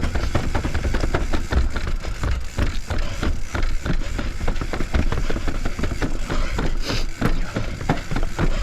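Full-suspension Commencal mountain bike riding down a long flight of stairs: many irregular knocks and rattles as the tyres drop off and hit the steps, over a constant low rumble of wind on the chin-mounted camera's microphone.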